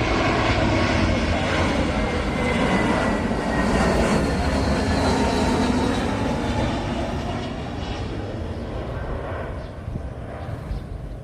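Jet airliner passing close by, a loud engine rush with a whine that slowly falls in pitch as it goes past, then fading away over the last few seconds.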